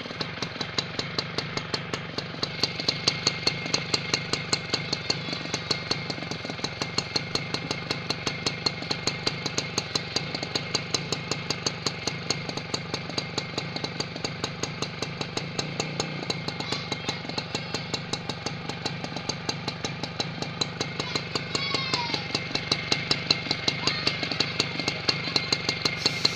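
Small motorcycle engine idling steadily, with a regular knocking pulse about three times a second.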